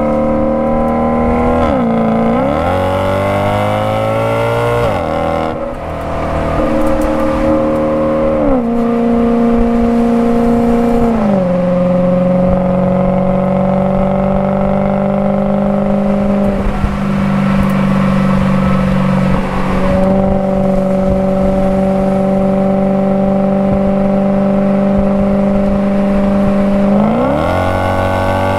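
Maserati Quattroporte Sport GTS's 4.7-litre V8 accelerating up through the gears. The engine note climbs and drops back at four upshifts in the first dozen seconds, then rises slowly and steadily for a long stretch, and near the end it dips and climbs again quickly.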